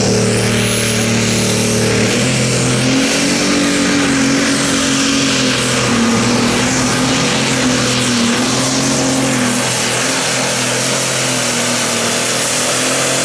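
Light Pro Stock pulling tractor's turbocharged diesel engine running hard and steady at high revs during a pull, its pitch wavering slightly. A high whistle rises at the start and then holds above the engine.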